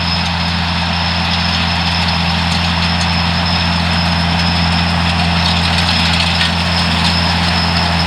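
A vehicle engine running steadily with an unchanging low drone.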